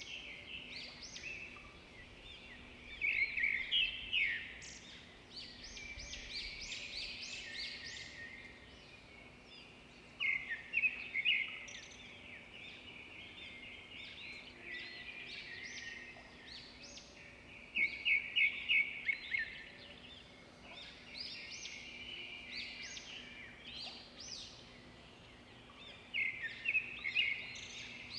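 Edible-nest swiftlets twittering: a steady chatter of high chirps, with louder clusters of rapid chirps every six or seven seconds.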